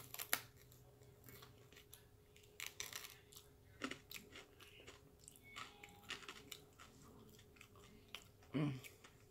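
Quiet, close-up chewing of crispy deep-fried corn dog crust bits scraped off the stick, with irregular small crunches and mouth clicks.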